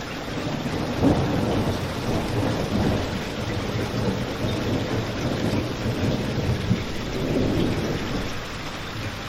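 Steady rain with a continuous low rumble, and a fireplace crackling with a few sharper pops.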